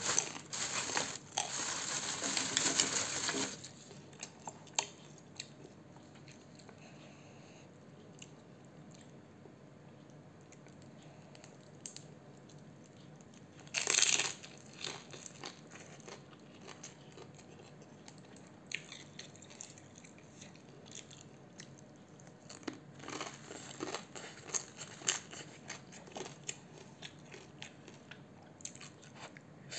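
A person eating: loud crunching and chewing for the first few seconds, a short loud crunch about fourteen seconds in, then softer chewing with many small mouth clicks toward the end.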